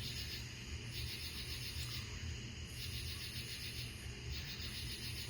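Night insects singing in a chorus: repeated pulsed, buzzing bursts, each under a second long, coming about every one and a half to two seconds over a steady low hum.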